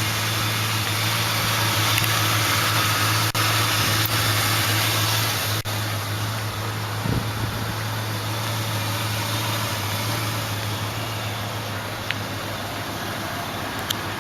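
1993 Lincoln Town Car's 4.6-litre V8 idling steadily through its dual exhaust, with a couple of faint clicks a few seconds in.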